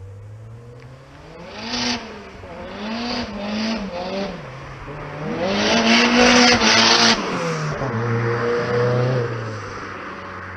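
Turbocharged Rover 1.8 K-series four-cylinder engine in an MG TF revving up and down several times, the longest and loudest climb about halfway through. Each time the revs rise, a strong hiss comes in over the engine note and cuts off as the revs fall. Near the end the engine settles back to a low, steady note.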